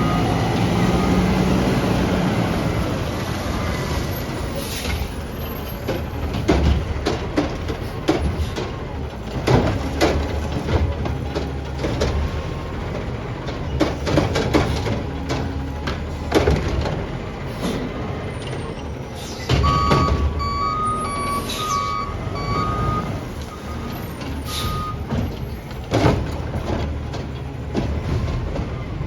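Garbage truck's diesel engine running, with its reversing alarm beeping near the start and again about twenty seconds in as it backs up. Repeated knocks and clunks, with bursts of air-brake hiss, come from the truck as it works.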